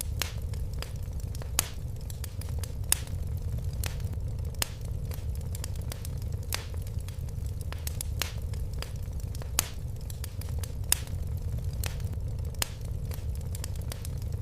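Fire crackling in a fireplace: irregular sharp pops and snaps over a steady low roar of the flames, with a few louder pops.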